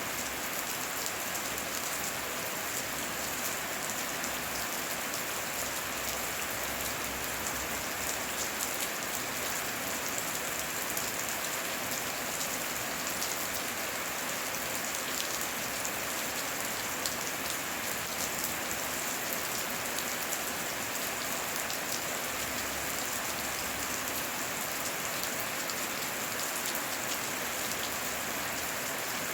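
Heavy rain falling steadily: a dense, even hiss of countless small drop impacts that keeps up at the same level throughout.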